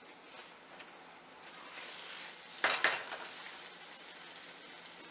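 Grated-carrot gajrela frying in ghee in a pan, with a low steady sizzle while a silicone spatula stirs and scrapes it. About two and a half seconds in, two sharp knocks of the spatula against the pan.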